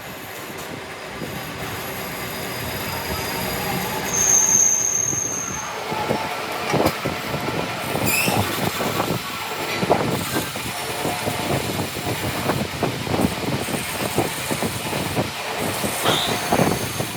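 Metalworking shop noise: steady machine running with irregular clanking and rattling of metal, and a brief high squeal about four seconds in.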